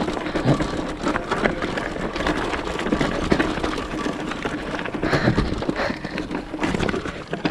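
Continuous rattling and knocking of a vehicle riding over a rough, rocky trail, with a faint steady hum underneath.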